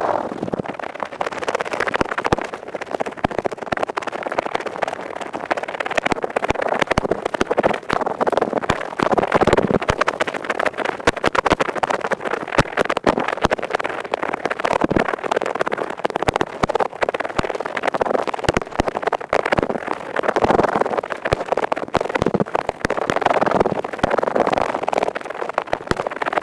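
Earpick scraping fast inside an ear canal, close up: a dense run of quick scratchy clicks with rubbing swells every few seconds.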